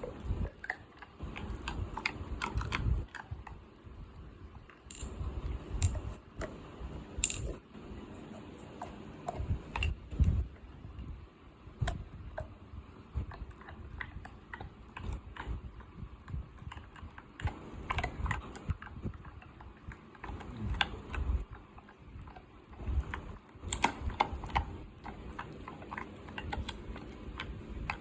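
Dog chewing and eating mutton: an irregular run of short clicks and low thuds.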